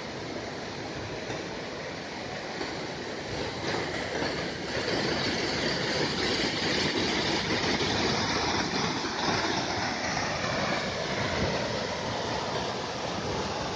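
Waterfall rushing: a steady, even roar of falling water that grows louder about four seconds in and then holds.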